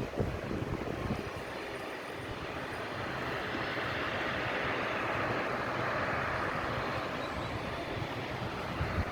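Jet airliner engines running as a plane passes, a rushing noise that swells to its loudest midway and then eases off, with wind buffeting the microphone.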